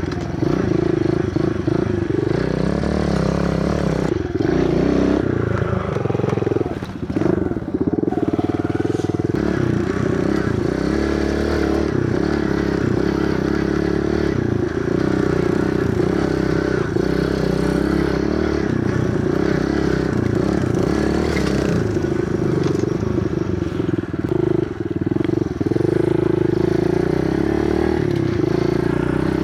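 Kawasaki KLX110 pit bike's small single-cylinder four-stroke engine running steadily under way, its note wavering and briefly dropping about five to eight seconds in before settling again.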